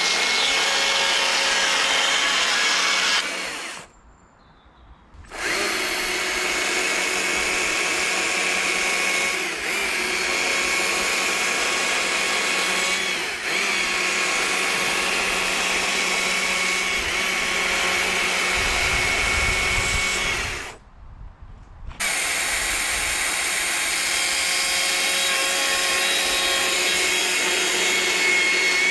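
Chainsaw running at high revs, cutting into wood, with a steady high whine; it breaks off twice for about a second or two.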